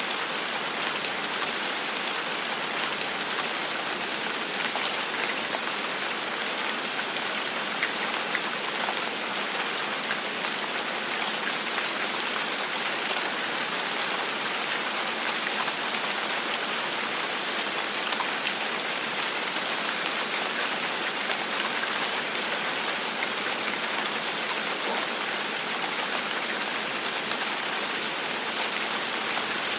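Steady gentle rain falling on a surface: an even hiss with the light patter of individual drops scattered through it.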